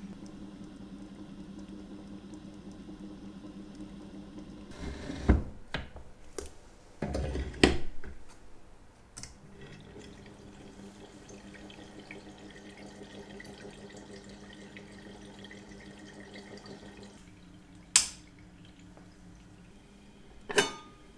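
Vintage Elma watch cleaning machine running, its motor humming steadily as the parts basket spins in a jar of cleaning solution. About five to eight seconds in the hum stops amid a cluster of clunks and knocks as the head is lifted and moved to the next jar, then the motor hums again; single sharp knocks come near eighteen and twenty seconds.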